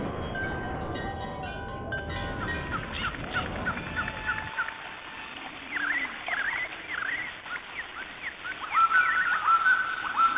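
Stock nature ambience: steady ringing tones over a low rumble for about the first four seconds, then birds chirping, quick rising and falling chirps repeated many times and growing busier near the end.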